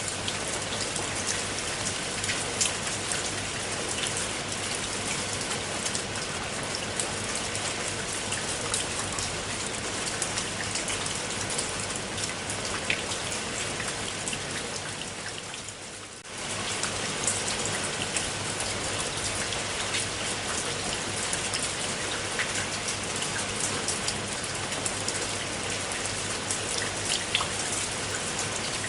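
Steady rain, a dense hiss dotted with the patter of individual drops. About fifteen seconds in it fades briefly, then comes back suddenly at full strength.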